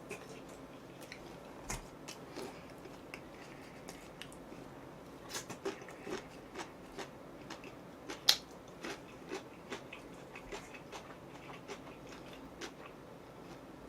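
Close-up chewing and biting of fried chicken: irregular crunchy clicks and smacks, with one sharper crunch about eight seconds in.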